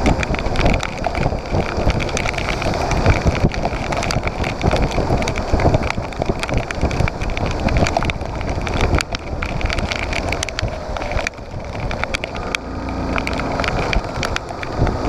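Motorcycle riding over rough dirt: the engine runs under wind buffeting on the microphone, with frequent knocks and rattles. Near the end the engine settles into a steadier note.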